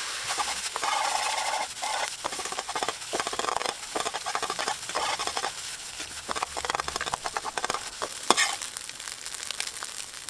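Fried rice sizzling in an iron frying pan while it is stirred and tossed, with frequent quick clicks and scrapes of the utensil on the pan and one sharper knock near the end.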